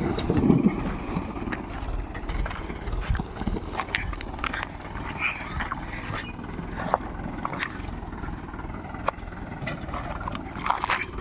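Mahindra tractor's diesel engine running steadily, with scattered knocks and clatter over it and a louder patch in the first second.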